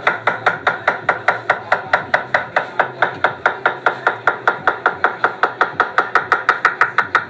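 Food being chopped quickly and evenly, about five or six sharp strokes a second, with no let-up.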